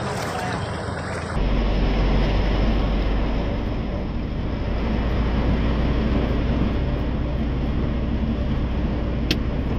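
Heavy rain pouring, with wind buffeting a phone microphone: a steady rushing noise over a low rumble, louder and deeper from about a second and a half in.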